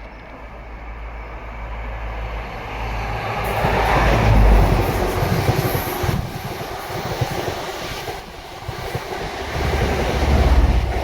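Train passing close by on the line, with a low rumble and wheel noise. It builds over the first few seconds to its loudest about four to five seconds in, then surges again near the end.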